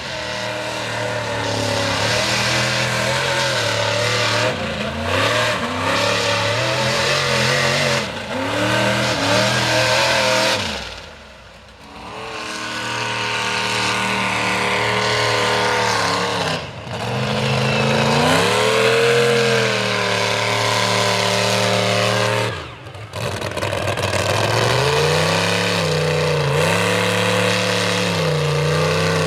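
A mud-bogging mega truck's engine revving hard, the revs climbing and falling again and again as it works through the bog. It briefly drops off the throttle about eleven, seventeen and twenty-three seconds in.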